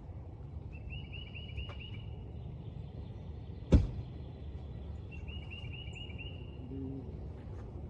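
A small songbird singing two short trills of quickly repeated high chirps, one near the start and one past the middle. A single sharp knock about halfway through is the loudest sound, over a steady low outdoor rumble.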